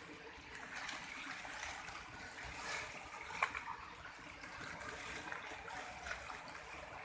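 Small stream's water running and trickling steadily, with a single sharp click about three and a half seconds in.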